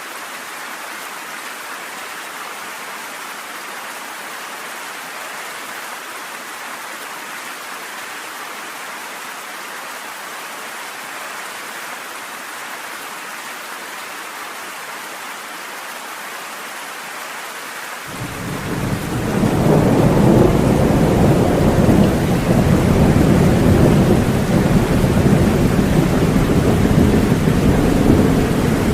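Steady rain falling. About eighteen seconds in, a loud rumble of thunder sets in, building over a couple of seconds and rolling on under the rain to the end.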